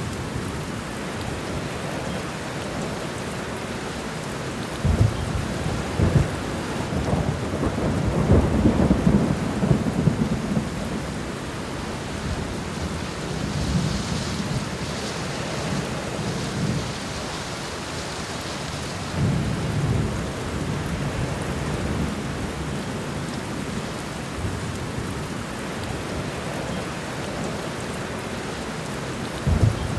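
Thunderstorm: steady rain with rolling thunder. A rumble builds about five seconds in, opening with two sharp cracks and rolling on for several seconds. A lighter roll comes around twenty seconds, and another crack near the end.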